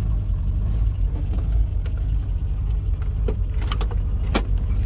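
Car engine idling with a steady low hum, heard from inside the cabin. A few sharp clicks come near the end.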